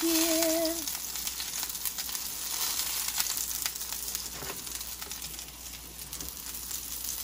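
Ground-chicken burger patties sizzling in hot oil in a nonstick frying pan, a steady hiss with frequent small crackling pops.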